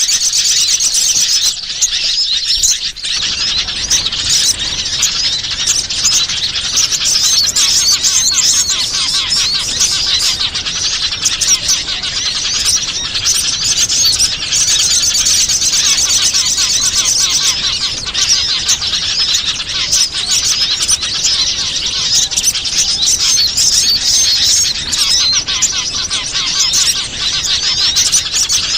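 Dense, continuous high-pitched chirping and twittering of many small wild songbirds, a bird-lure (pikat) recording played to draw small birds in.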